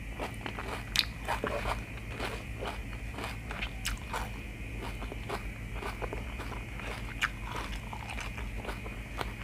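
Close-up chewing and crunching of spicy stir-fried chicken giblets with basil and rice, a scatter of small sharp clicks from the bites.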